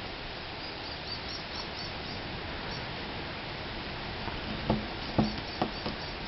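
Pet budgerigars chirping softly in short, high calls, with a few soft knocks a little over halfway through.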